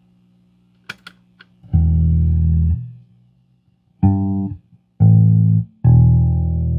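Fender Jazz Bass played through an MXR M175 Digital Time Delay into an Orange Crush bass amp. After a faint amp hum and a few sharp clicks, four plucked notes sound; the last one rings on.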